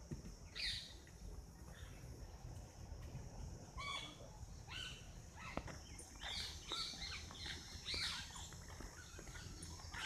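Birds chirping in scattered short calls, thickest in the second half, over a steady high hiss.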